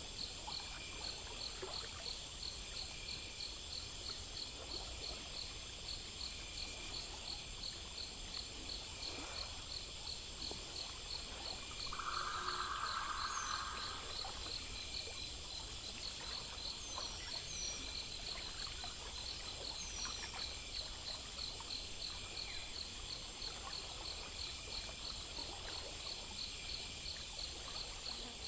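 Night insect chorus: crickets trilling steadily in several overlapping rapid pulse trains, with a low hum beneath. About twelve seconds in, a louder buzzing call lasting about two seconds rises above them.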